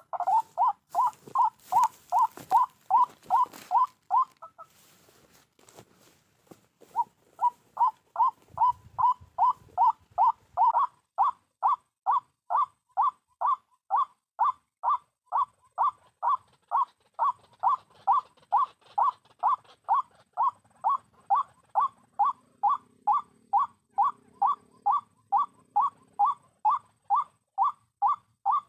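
White-breasted waterhen's 'kru-ok' call, short notes repeated at about two a second in a steady rhythm, stopping briefly about five seconds in, then running on unchanged.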